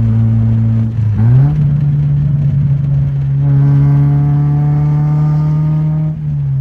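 Car engine running under way, its note climbing in pitch about a second in and then holding a steady drone that grows fuller in the middle before easing down slightly near the end.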